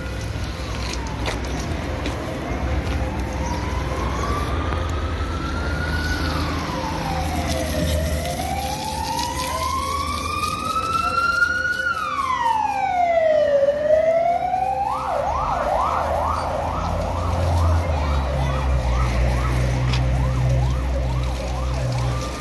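Emergency vehicle siren sounding a slow rising-and-falling wail, switching about two-thirds of the way through to a fast yelp of about two sweeps a second, with a low rumble underneath.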